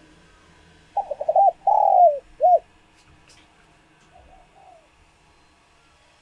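Spotted dove cooing. A loud phrase about a second in runs several quick notes, then a longer falling coo, then a short final note. A fainter coo phrase follows about four seconds in.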